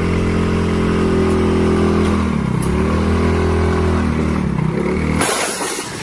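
A motor vehicle's engine runs steadily with a droning hum. Its pitch dips and comes back up twice. Near the end it gives way to a short burst of rushing noise.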